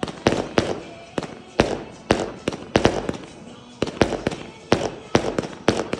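A 200-shot fireworks barrage cake firing in quick succession: a string of sharp bangs, two or three a second, each trailing off briefly.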